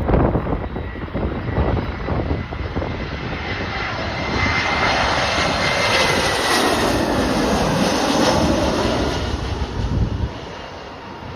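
Jet airliner on final approach passing overhead, its engines swelling to a broad rush with a high whine that drops slightly in pitch as it goes by, then fading near the end. Gusty wind buffets the microphone at the start.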